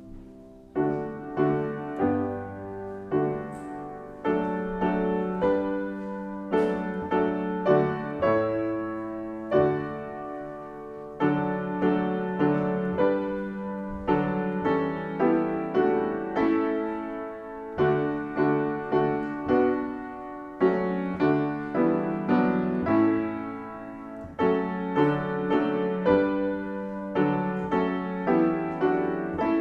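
Solo piano playing a slow piece, with chords and notes struck roughly once or twice a second, each fading away after it is struck.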